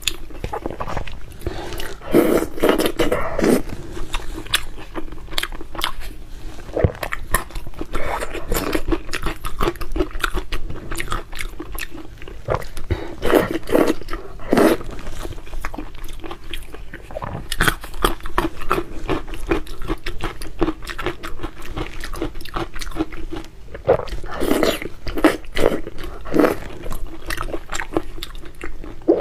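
Close-miked chewing of fatty red-braised pork belly: wet mouth noises and many short sticky clicks, louder in a few clusters as fresh bites are taken.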